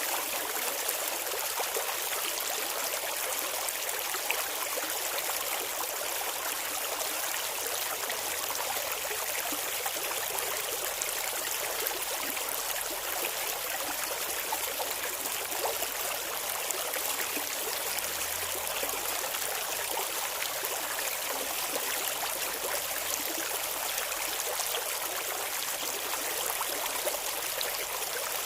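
Clear shallow river water flowing and babbling over stones, a steady splashing rush with no let-up.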